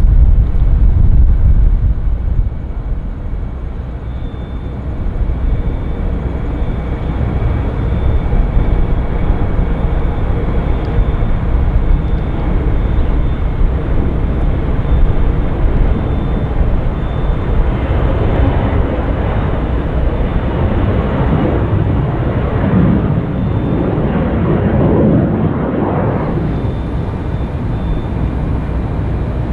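Jet airliner passing the airport, its engine noise swelling and sweeping in waves about two-thirds of the way through, then easing, over a steady heavy low rumble.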